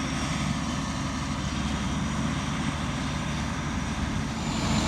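Heavy diesel engine running steadily at an even pace, a low drone with no change in speed.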